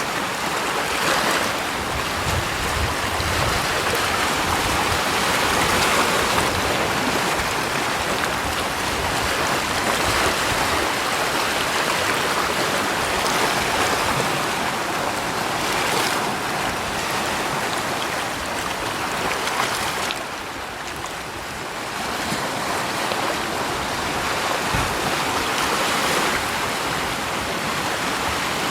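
Rushing water: a steady hiss that swells and eases every few seconds and drops back briefly about two-thirds of the way through.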